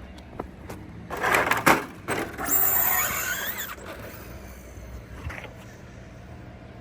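Radio-controlled truck running: its motor whines with rising and falling pitch, after a burst of clattering with sharp knocks about a second and a half in.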